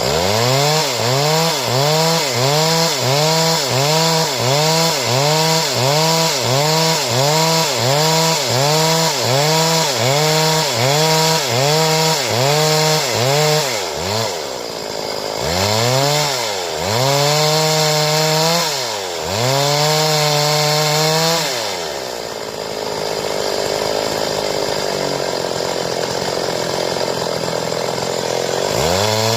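Stihl two-stroke chainsaw revving up and down in quick regular pulses, about one and a half a second, for the first half; then three longer revs, then several seconds running low at idle, and a rev again at the end.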